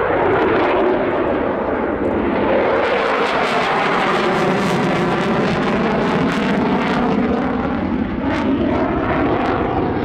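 RAF Eurofighter Typhoon's twin Eurojet EJ200 jet engines, a loud steady rumble and roar during a display manoeuvre, with a whine that slowly shifts in pitch as the jet moves.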